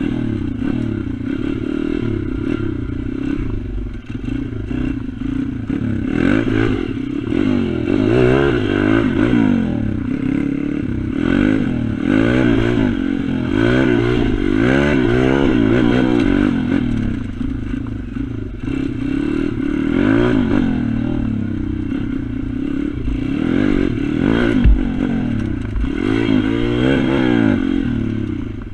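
Pit bike engine revving up and down over and over as it is ridden hard around a track, the pitch climbing and dropping through the gears.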